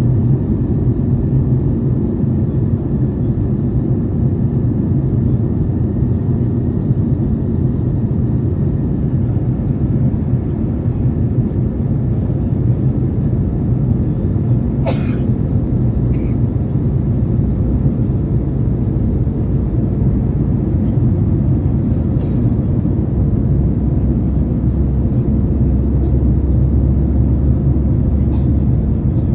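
Airliner cabin noise in flight: a steady low drone of engines and airflow, with one brief sharp click about halfway through.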